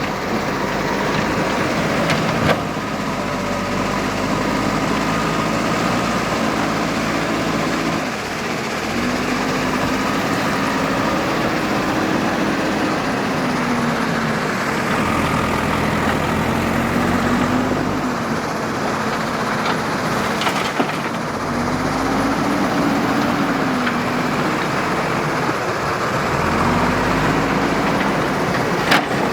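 Diesel engine of a JCB 3DX backhoe loader running under work load, its pitch rising and falling several times as it revs up and eases off, with a few sharp knocks.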